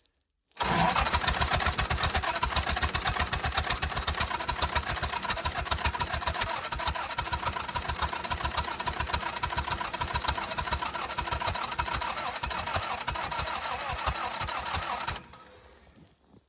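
A welder's engine cranking over on its electric starter in −20° cold, a fast even chugging that starts suddenly and stops abruptly after about fourteen seconds without the engine catching: a hard cold start that fails.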